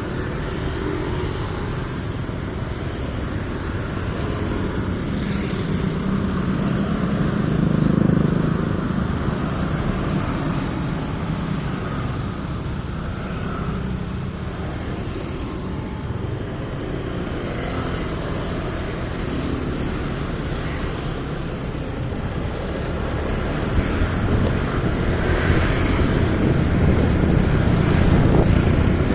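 Motorcycle engine running on a ride through city traffic, mixed with road and passing-traffic noise. It swells louder about eight seconds in and again near the end.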